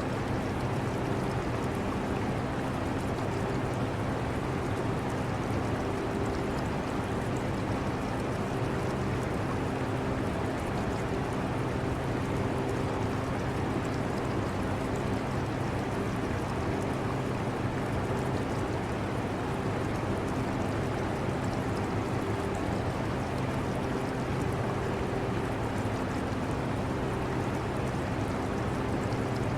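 Portable air conditioner running with a steady fan noise and a low hum with a few level tones, mixed with the trickle of water from an aquarium.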